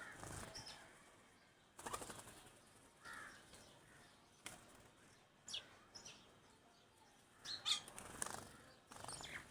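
Small birds chirping in short high notes, with several brief bursts of wing flapping, the loudest about three-quarters of the way through.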